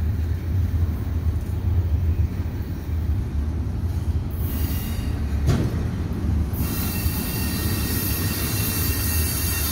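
CSX double-stack intermodal freight train rolling past: a steady low rumble of wheels and cars, with one knock about halfway through. A high hiss with faint thin tones from the wheels sets in about two-thirds of the way in.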